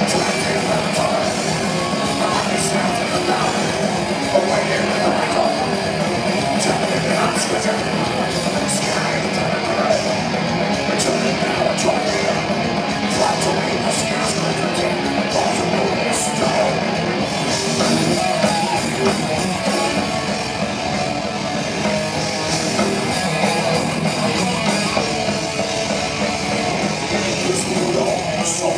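A heavy metal band playing live, loud and unbroken: distorted electric guitars, bass and drums.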